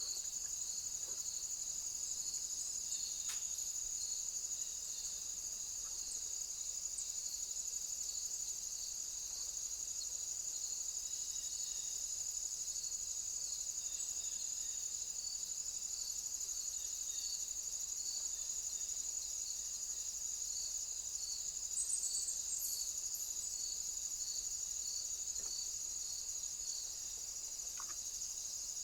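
Insects, crickets or similar, chirring: a steady high-pitched trill, with a second insect's regular pulsing chirp under it. A short, higher chirp comes about three quarters of the way through.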